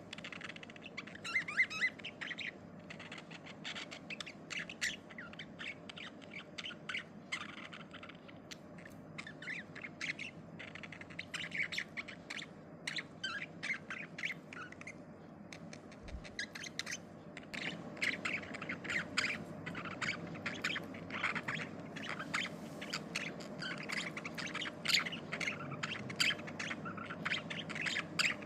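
Budgerigars chirping and squawking in a continuous run of rapid, short calls, over a steady low background hiss.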